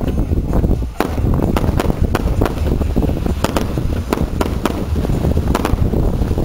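Fireworks going off in a fast, irregular string of sharp pops and bangs, over heavy wind rumble on the microphone.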